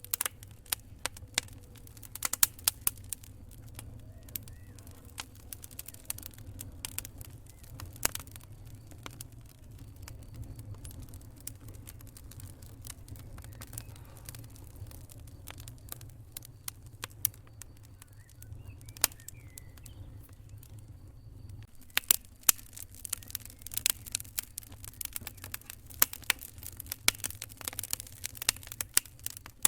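Campfire wood crackling, with sharp irregular pops and snaps that come thicker about two-thirds of the way in, over a low steady rumble.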